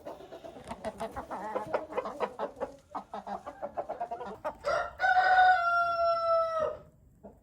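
Chickens clucking rapidly and continuously, then one loud, long drawn-out call about five seconds in that drops in pitch as it ends.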